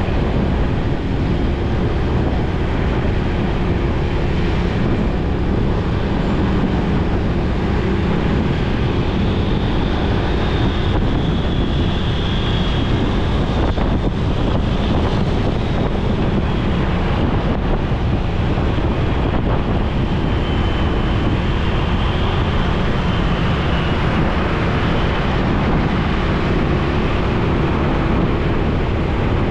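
Steady wind rushing over the microphone on a moving motorcycle, with the bike's engine and surrounding traffic running underneath.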